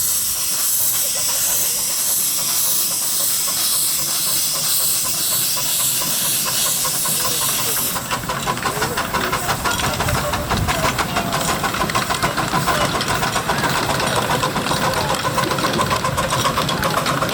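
Miniature live steam locomotive on a 7¼-inch gauge railway hissing steam steadily, then, about eight seconds in, a quick, even beat of exhaust as it works.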